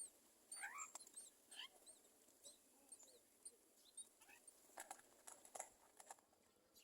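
Faint bird chirps and short quick rising calls, scattered and irregular, with a few sharp clicks around five to six seconds in.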